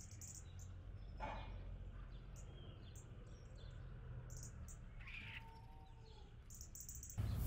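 Faint garden birdsong: scattered short, high chirps and tweets from small birds over a low steady rumble.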